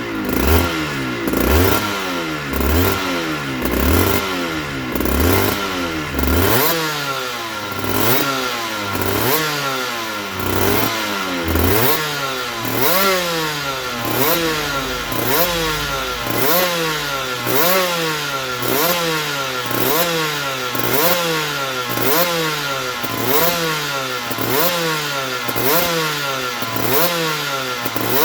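2008 Aprilia RS125's single-cylinder two-stroke engine revved in repeated throttle blips, its pitch rising and falling about once a second in an even rhythm. There are heavier low thumps with each blip for the first dozen seconds.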